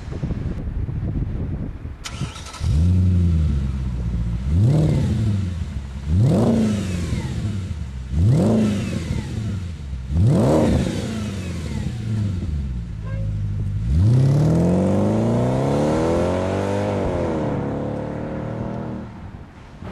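Audi A4/S4 Cabriolet engine through a stainless-steel duplex sport exhaust, blipped from idle in five short revs about two seconds apart. Then comes one longer rev that climbs, holds and drops back to idle near the end.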